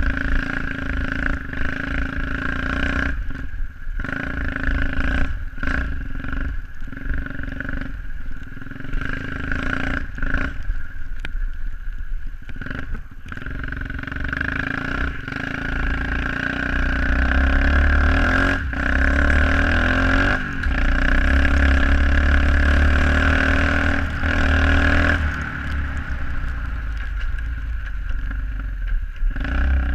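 SSR 125cc pit bike's single-cylinder four-stroke engine running while ridden, the throttle repeatedly easing off and opening again. A heavy low rumble is strongest through the middle stretch.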